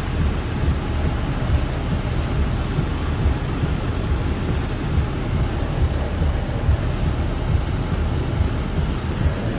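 Steady rain falling, an even hiss with a continuous low rumble under it.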